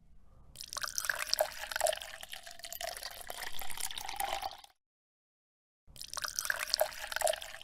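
Small magnetic balls clicking and rattling against one another in two busy bouts, with a break of about a second between them.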